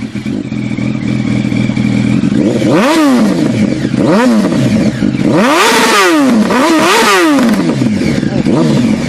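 Sport-bike engine idling, then revved several times in quick blips, each rev climbing and falling back in pitch, before it settles back to idle near the end.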